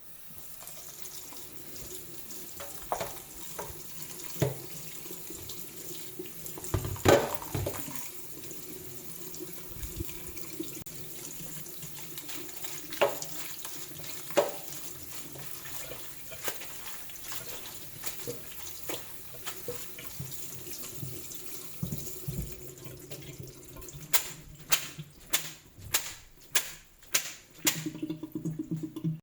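Kitchen tap running steadily into a sink, with occasional knocks of items handled in it. The water stops about two-thirds of the way through, and near the end comes a quick run of sharp clicks.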